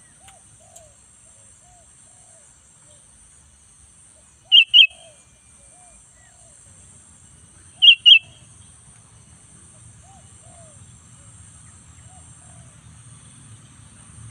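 Sooty-headed bulbul (kutilang) giving a loud, sharp two-note call twice, about three seconds apart, over a run of soft, low, repeated notes.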